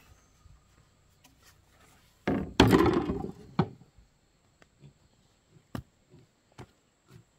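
A loud clatter of wood lasting just over a second, then a few separate sharp wooden knocks.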